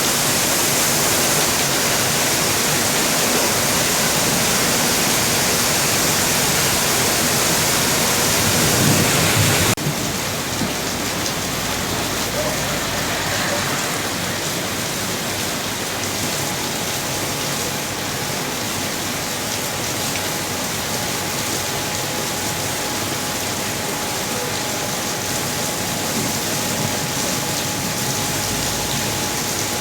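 Heavy rain falling as a steady hiss. About ten seconds in, the sound changes abruptly to a slightly quieter, duller rain.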